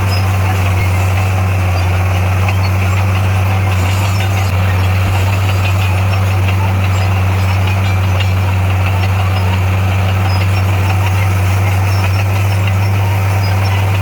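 Heavy diesel engine of construction machinery running steadily at a constant speed, with a deep, even hum and no revving.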